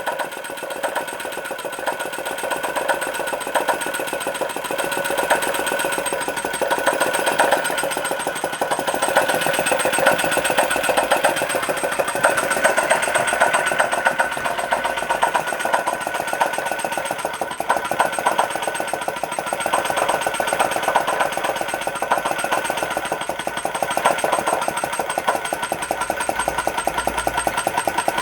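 Small Chinese-made flame licker (vacuum) engine running with a fast, even ticking beat, its level swelling and easing instead of holding steady. It is not running at a constant speed, which the owner takes for a sign that something needs adjusting.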